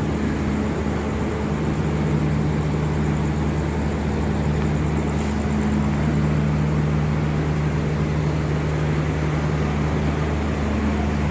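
Steady drone of an idling diesel engine, a low even hum that holds constant.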